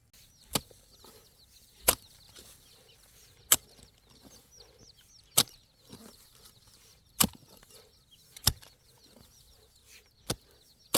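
Repeated chopping strokes of a blade cutting into a banana plant, one sharp chop every one and a half to two seconds. Chickens cluck faintly in the background.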